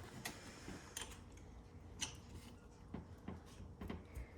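A few faint, scattered clicks and taps, like small tools or parts being handled.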